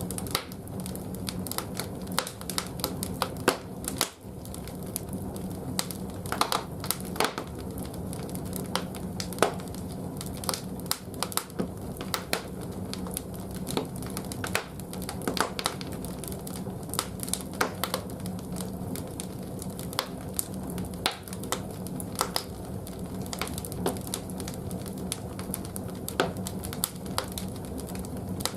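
Large firewood logs burning in a wood-fired bathhouse boiler's firebox, crackling and popping irregularly over a steady low rumble.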